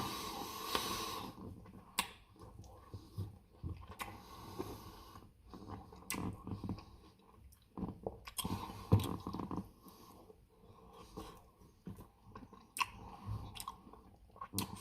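Close-up chewing and wet mouth sounds of a person eating ice cream cake with Reese's peanut butter cup chunks: irregular smacks and clicks, with a short breathy hiss near the start.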